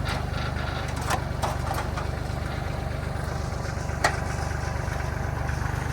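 Forklift engine idling steadily, with a few sharp metal knocks as the engine is lifted.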